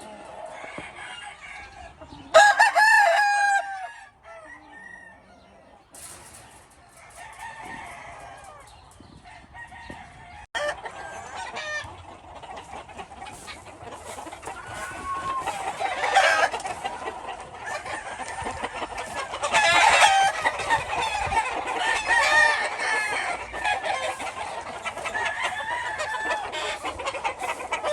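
Gamefowl roosters crowing: one loud crow about two seconds in, then from about ten seconds on many birds crowing and clucking over one another.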